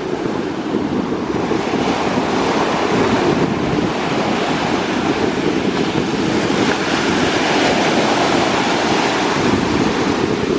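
Atlantic surf breaking on a beach: a continuous wash of waves whose hiss builds up a second or two in and stays full, with wind rumbling on the microphone underneath.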